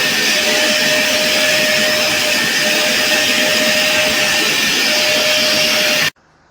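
Vacuum cleaner motor running steadily at full suction, a loud airy rush with a steady whine, which stops abruptly about six seconds in.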